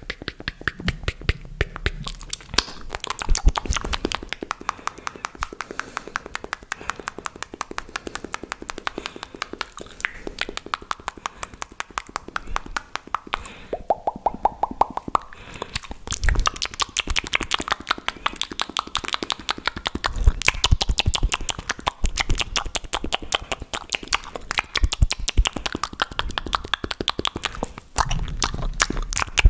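Fast, aggressive wet mouth sounds made close to a microphone: rapid clicks, pops and smacks, many a second, with a brief rising tone about halfway through.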